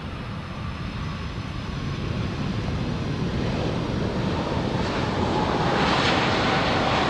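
Jet airliner's engines heard as a broad rushing noise that grows steadily louder as the aircraft approaches, with a faint whine coming up in the last couple of seconds.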